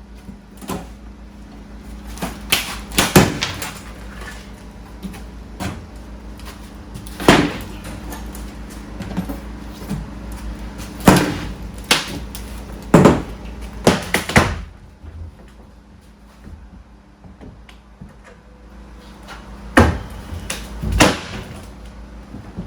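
Wooden floorboards being pried up with pry bars: irregular creaks, cracks and knocks as the wood and its nails give way. The sounds come in clusters, with a quieter lull before two more loud cracks near the end.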